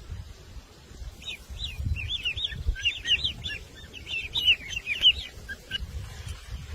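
A bird singing a fast, jumbled run of short chirping notes, starting about a second in and stopping about a second before the end, over a low rumble.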